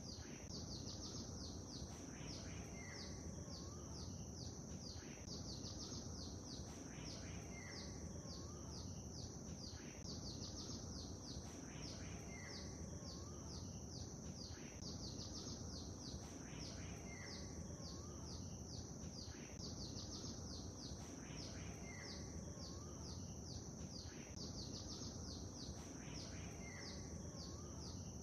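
Lake ambience: a steady low wash of water under birdsong. Fast, high chirping runs throughout, and a short high note and a lower whistled call come back about every five seconds in a regular repeating pattern.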